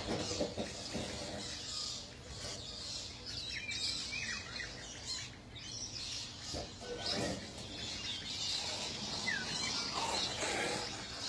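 Birds chirping: a few short, scattered chirps over a faint outdoor background.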